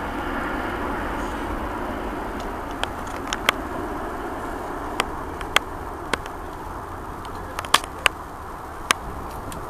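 Airbus A380's four jet engines rumbling as the climbing airliner recedes, the roar slowly fading. Sharp clicks sound here and there, several in the second half.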